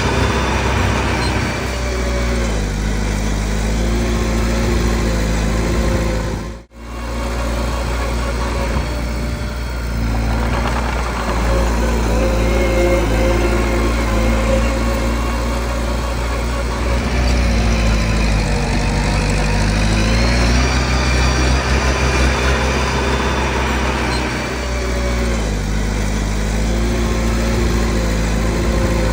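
Bulldozer's diesel engine running, its pitch climbing and falling again and again as the load changes. The sound drops out briefly about seven seconds in.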